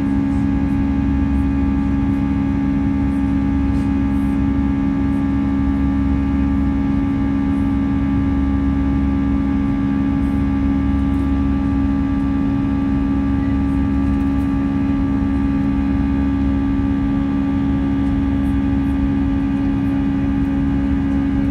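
Airbus A320 cabin noise: jet engines and airflow making a steady hum with several held tones, at an even level throughout.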